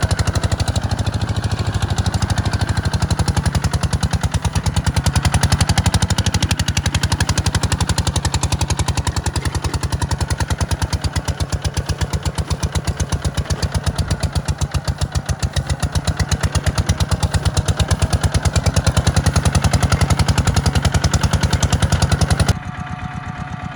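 Tractor diesel engine running, a fast, even firing pulse with a strong low rumble. It drops suddenly much quieter near the end.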